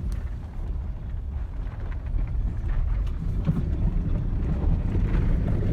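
Low steady rumble of a vehicle driving, with wind noise on the microphone.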